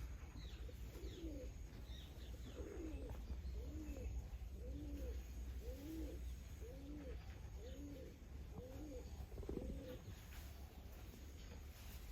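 A bird calling a low, arched note over and over, about once a second, for some ten seconds, with faint high chirps from smaller birds near the start.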